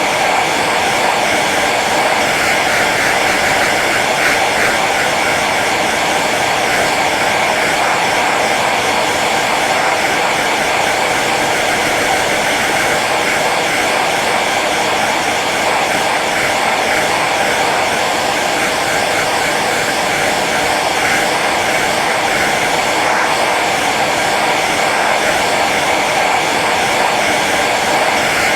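Hair dryer running steadily on its low setting: an even blowing whoosh with a faint motor hum, unchanging throughout.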